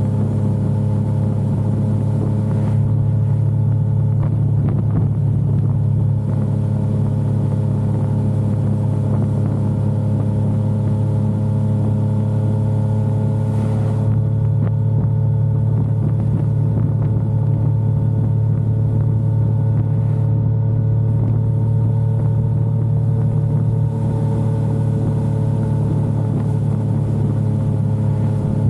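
Yamaha XSR900's inline three-cylinder engine running steadily at cruising speed, its pitch holding nearly level with only slight gentle dips and rises.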